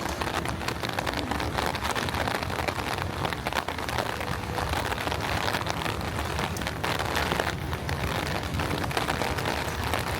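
Rain falling, many small drops ticking close to the microphone over a steady hiss.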